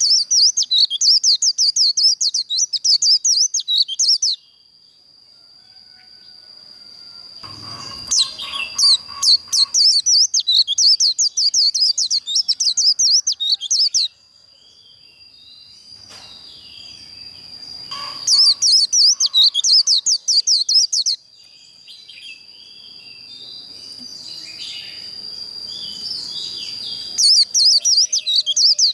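White-eye singing its rapid, high twittering 'líu' song in four bouts of a few seconds each. Between bouts there are quieter scattered chirps over a thin, steady high tone.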